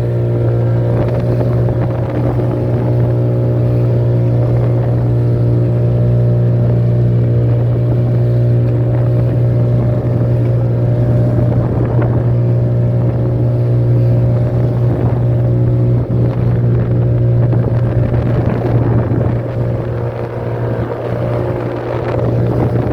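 A boat's motor running steadily at constant speed, a low even drone, with wind and water noise over it.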